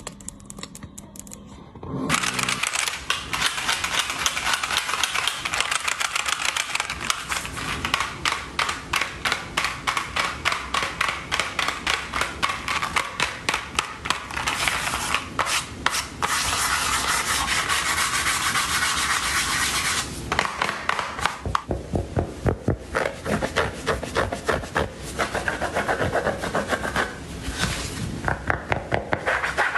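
Fast scratching and rubbing strokes close to the microphone, starting about two seconds in after a quiet opening, with the texture shifting several times.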